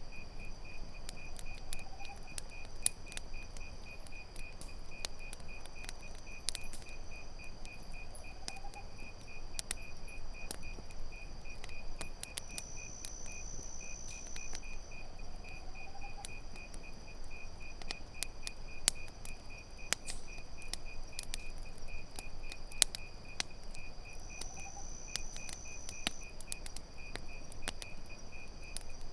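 Campfire crackling with frequent sharp pops, over crickets chirping in a steady fast pulse. A higher insect trill comes in twice for a couple of seconds, and a faint short rising call repeats every several seconds.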